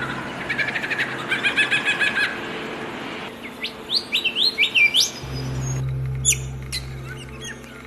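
Several different birds calling in turn. First a fast series of chirps, then a run of rising whistled notes, then a few sharp high calls over a low steady hum. The abrupt changes between them sound like separate recordings cut together.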